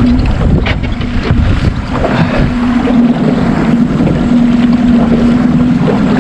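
Small fishing boat under way at trolling speed, its motor humming steadily under wind buffeting the microphone and choppy water slapping the hull.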